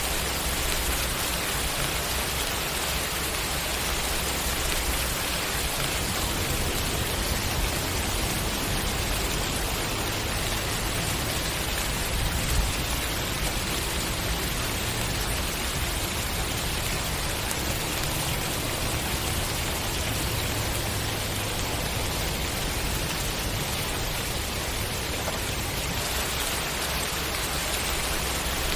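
Steady rain falling, an even hiss with a low rumble beneath it. One brief louder tap about twelve seconds in.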